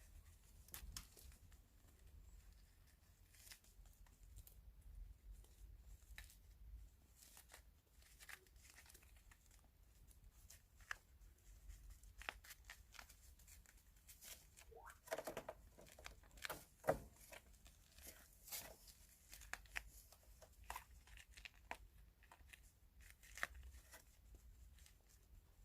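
Faint scattered clicks and rustling from kittens chewing and tugging at their food, busier in the second half.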